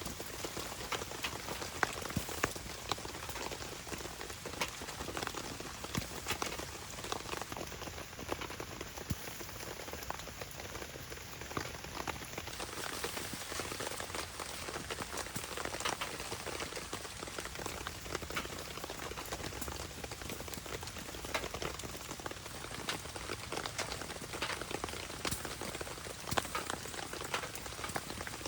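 Steady rain pattering, with many short sharp clicks of drops scattered through it.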